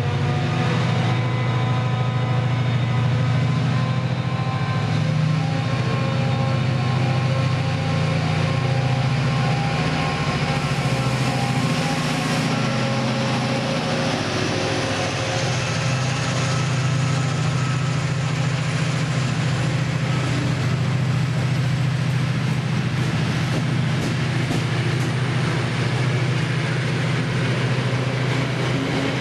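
A train running steadily with a deep, even hum. A faint high whine rises slowly over the first half.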